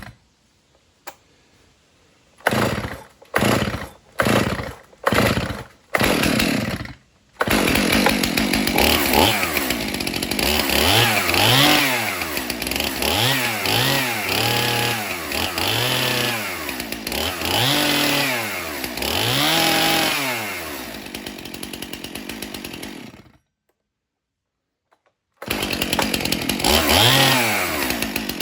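Stihl MS291 two-stroke chainsaw pull-started: about six short bursts as the cord is pulled, then it catches and runs, revved up and back down to idle over and over. It stops, and after a short silence it is running again and revved once more near the end.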